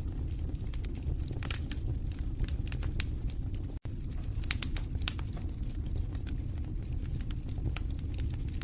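Wood fire in a fireplace crackling, with frequent irregular sharp pops over a steady low rumble of the flames. The sound cuts out for an instant a little before four seconds in.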